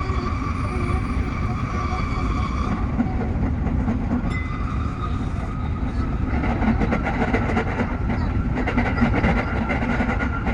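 Tsukuba Express TX-3000 series electric train running: a steady low rumble with a steady whine on top, and from about six seconds in, a dense rapid clatter of wheels over the track.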